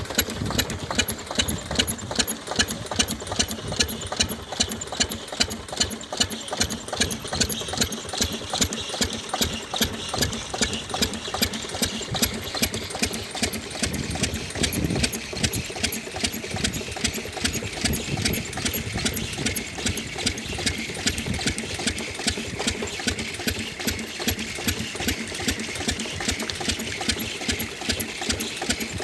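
10 hp single-cylinder diesel pump engine running steadily at working speed, its exhaust beating evenly a few times a second as it drives the water pump.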